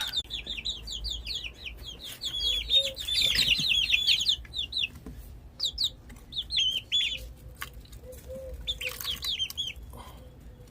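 A brood of 19-day-old chicks peeping, many short high calls at once, thinning to scattered clusters in the second half, with small knocks and taps among them.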